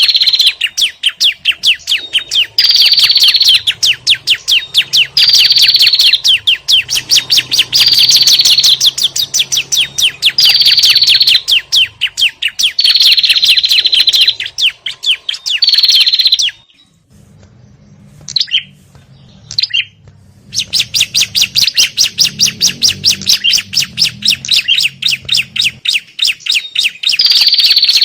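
Lure recording of prenjak and ciblek (small prinia-type songbirds) calling in agitated chatter: fast runs of sharp chirps, each run ending in a higher down-slurred note, repeating every two to three seconds. The chatter breaks off for about four seconds past the middle, with only a few single calls, then starts again.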